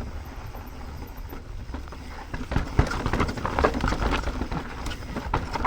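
Mountain bike rolling down a dirt trail, with wind buffeting the microphone. About halfway in, the bike starts clattering and rattling over rough ground as knocks and clicks pile up.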